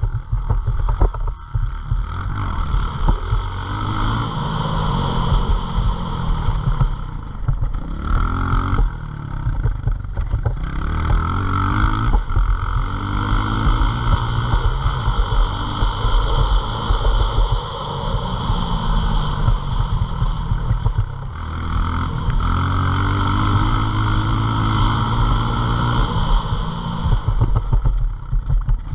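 Pit bike's small single-cylinder engine revving up and dropping back over and over as it is ridden hard, accelerating out of corners and shutting off for the next. A steady rush of noise runs underneath.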